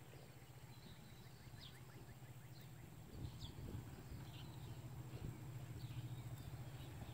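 Faint outdoor ambience: small birds chirping again and again over a steady low hum, with soft low thumps from about three seconds in.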